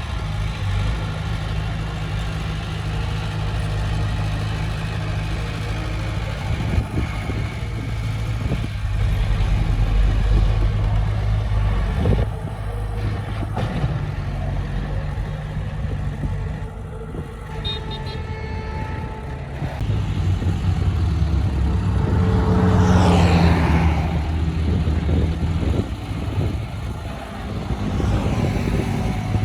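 Heavy earthmoving machine's diesel engine running steadily, its load rising and easing several times, with a brief rushing sweep about two-thirds of the way through.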